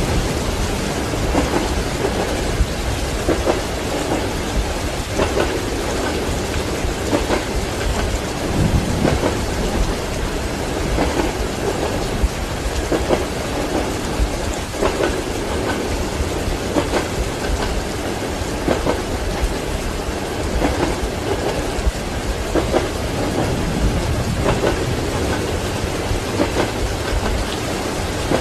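Steady heavy rain with a continuous low thunder rumble, and under it the train's wheels clacking over rail joints in a slow, regular rhythm about every two seconds.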